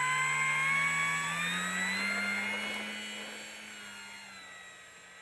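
Electric motor and propeller of a Dynam Cessna 188 RC plane whining in flight. The pitch rises over the first two seconds, holds, and then the sound fades steadily over the last two seconds.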